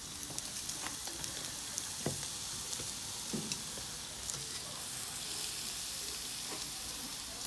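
Marinated beef strips and chicken sizzling on a barbecue grill: a steady hiss with scattered crackles and pops, and a couple of soft knocks.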